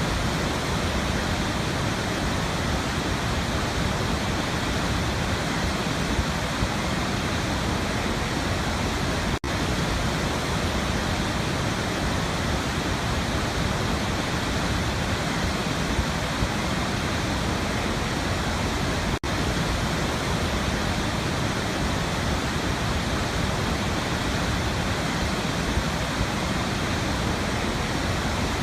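Steady, full rush of a waterfall, even and unchanging, broken twice by a split-second gap in the sound about ten seconds apart, where the recording loops.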